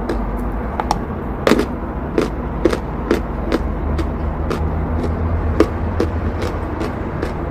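Chalk being bitten and chewed close to the microphone: sharp, crisp crunches coming irregularly about twice a second, over a steady low rumble.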